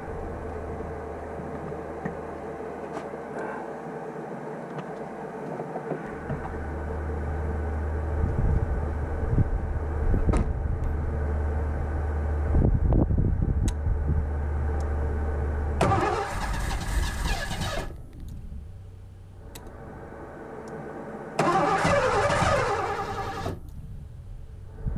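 The V8 of a 1984 Ford LTD Crown Victoria being started with gasoline poured into its central fuel injection throttle body, which primes an engine with a fuel delivery problem. A low steady engine hum runs under short knocks, and two loud bursts of a couple of seconds each come in the second half.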